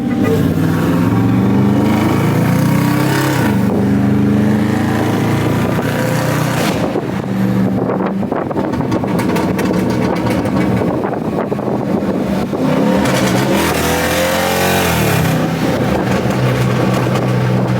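Car engines running and revving, their pitch rising and falling with each rev, loud throughout.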